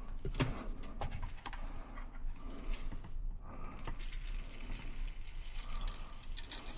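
Light pattering and small irregular clicks of birdseed and a food dish being handled as the finches' feeder is filled.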